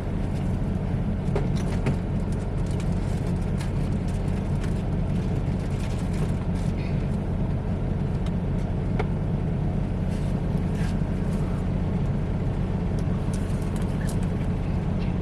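Semi-truck's diesel engine running steadily, a constant low hum heard from inside the cab, with a few faint small clicks and rattles.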